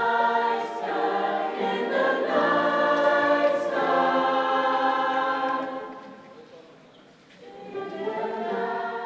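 A choir singing sustained chords in harmony, without accompaniment. The chords change every second or two, fade out about six seconds in, and start again a second later.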